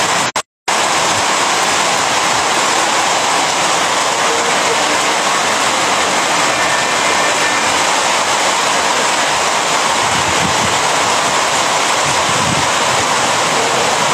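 Heavy rain pouring down in a loud, steady hiss, with water running across a flooded street. The sound cuts out briefly twice in the first second.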